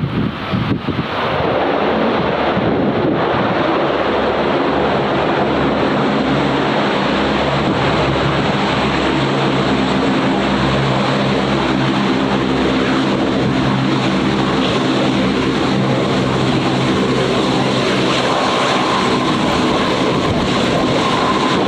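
Airplane engines running loud and steady, with a layered hum of several steady tones. A higher steady whine joins in near the end.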